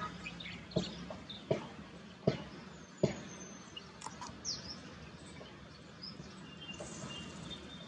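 Small birds chirping faintly here and there, with one falling call near the middle. Four sharp knocks about three quarters of a second apart in the first three seconds stand out over a steady low background hum.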